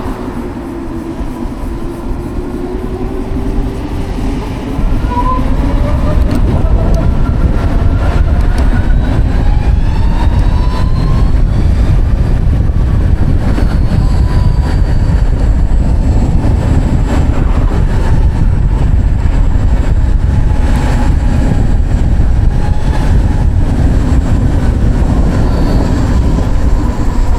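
Savic C3 electric motorcycle riding, its electric motor whining and rising in pitch as it speeds up, then settling to a steadier whine, over heavy wind and road rumble.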